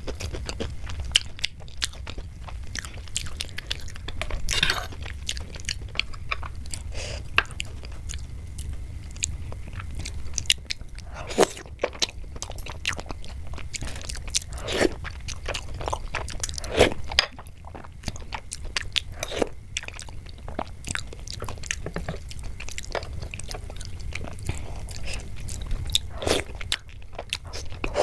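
Close-up mouth sounds of eating soft rasabali soaked in sweet thickened milk: wet chewing, smacking and slurping, with many short sharp clicks at irregular intervals. A steady low hum runs underneath.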